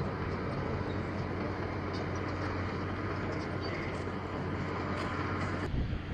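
A steady engine hum over rushing noise, which cuts off suddenly shortly before the end.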